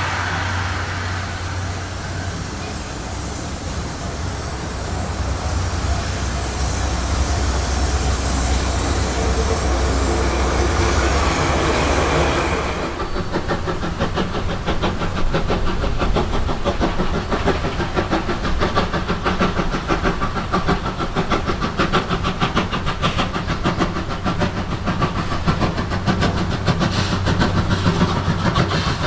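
C11 steam tank locomotive running: a steady hiss of steam over a low rumble, changing suddenly about halfway through to a fast, even clatter as the train rolls by.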